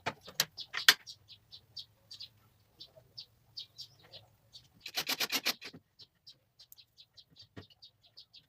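Small birds chirping repeatedly in short separate notes. A few sharp knocks come in the first second, and a quick rattling run of clicks lasts about half a second around five seconds in.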